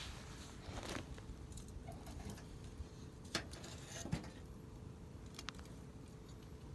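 Wood campfire crackling, with a few sharp pops, the loudest about three and a half and four seconds in.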